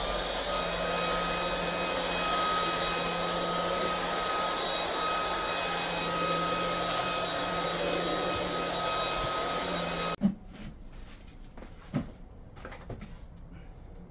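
Cordless stick vacuum's brushless motor running with a steady whine, its pitch stepping up at the very start as it shifts to a faster speed mode. It switches off suddenly about ten seconds in, followed by a few light handling knocks.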